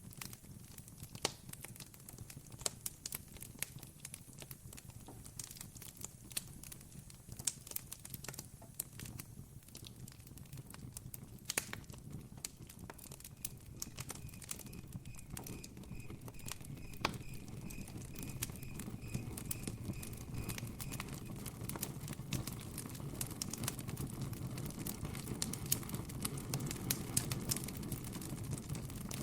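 Campfire crackling: irregular sharp snaps and pops of burning wood over a low steady rumble of flames, growing slightly louder toward the end. Midway a short run of evenly spaced high chirps sounds faintly behind it.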